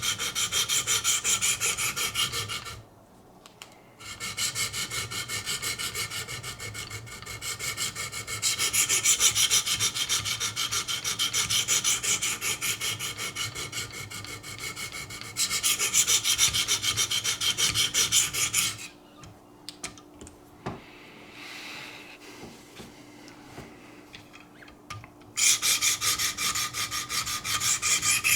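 Diamond stones of a Wicked Edge guided knife sharpener being stroked rapidly along a knife edge, a steady scraping rasp, while raising a burr along the edge. The strokes stop briefly about three seconds in, then pause for several seconds near the end, with a single click in the gap, before starting again.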